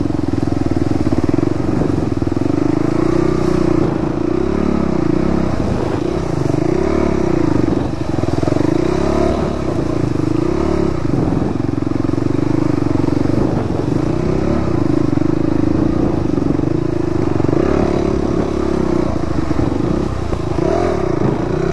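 Dirt bike engine being ridden, its revs rising and falling again and again.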